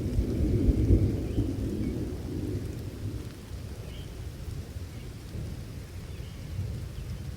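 A low rumble of thunder, loudest in the first two seconds and then slowly fading, over steady rain.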